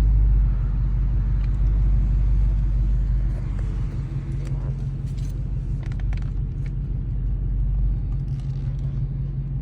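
Dodge R/T's 5.7-litre Hemi V8 idling steadily, a low even rumble with a few faint ticks in the middle.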